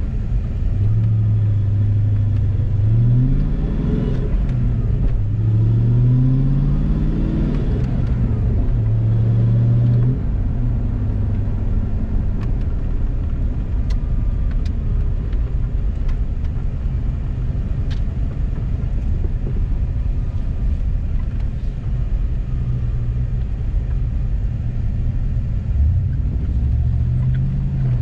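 Car engine and road rumble while driving. The engine pitch rises twice in the first ten seconds or so as the car accelerates, then drops back to steady cruising.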